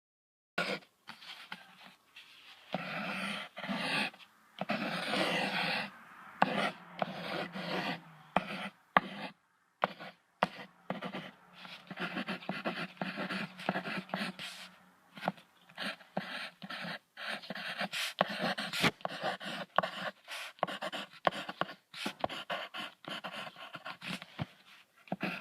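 An animal panting in quick short breaths, in runs broken by brief pauses.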